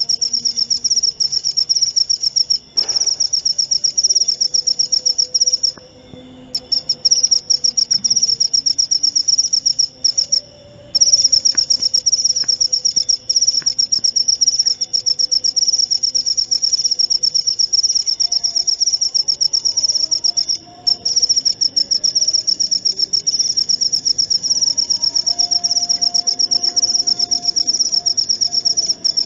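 Jaliteng field cricket chirping: a loud, high-pitched trill of very rapid pulses that runs on almost without a break. It stops for a moment about four times, longest around six and ten seconds in.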